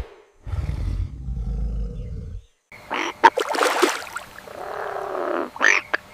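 Animal sound effects: a low rumbling roar lasting about two seconds, then a jumble of sharp clicks and noisy calls.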